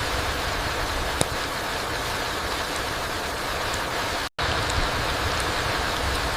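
Steady rain falling through forest trees onto the ground, an even hiss, with one sharp tick about a second in. The sound cuts out completely for a split second just past four seconds in.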